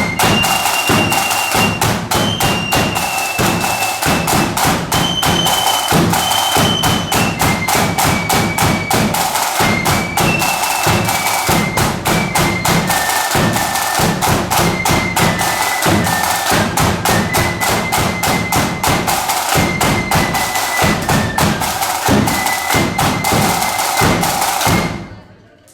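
Flute band playing a marching tune: a high flute melody over heavy, fast snare and bass drumming. The tune ends abruptly just before the end.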